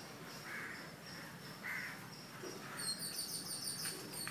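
Birds calling outdoors: two short harsh calls in the first two seconds, then a quick run of high chirps from about three seconds in.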